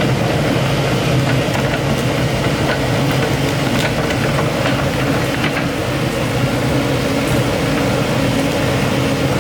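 Excavator's diesel engine running steadily, with a few light clicks or knocks over it.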